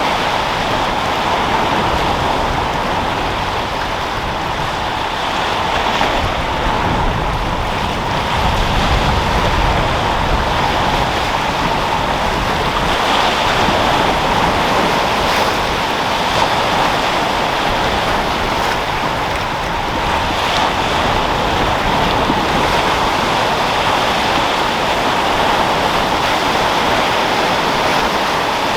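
Sea waves washing and breaking continuously, with wind: a steady rushing surf that swells and eases a little every few seconds.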